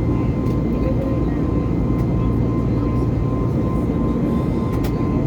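Steady in-cabin drone of an Airbus A320neo's CFM LEAP-1A turbofan engines: an even low rumble with a steady high whine over it.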